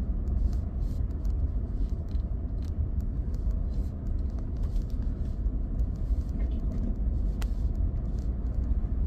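A vehicle driving slowly on a slushy, ice-covered road: a steady low rumble of engine and tyre noise, with scattered light ticks and clicks.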